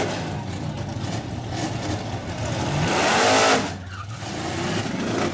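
Drag-racing car engines revving and then accelerating hard off the line at full throttle. Engine pitch climbs to its loudest about three and a half seconds in, then falls away sharply as the cars pull off down the strip.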